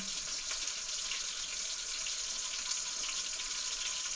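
Food sizzling in hot oil in a pan: a steady frying hiss with faint crackles.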